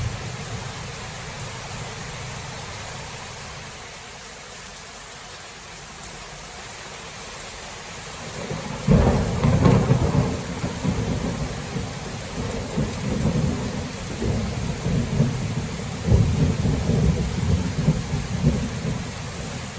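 Thunderstorm: steady rain hissing, then a sudden loud thunderclap about halfway through that breaks into long, rolling low rumbles of thunder, swelling again a few seconds later.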